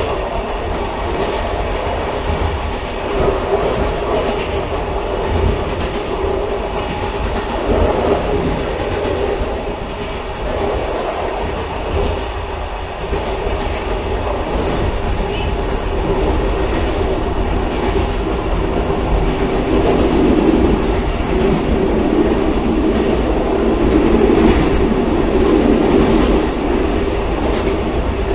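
Steady running noise of a moving railcar, with the rumble of wheels on the track and occasional clickety-clack at rail joints. It grows somewhat louder in the second half.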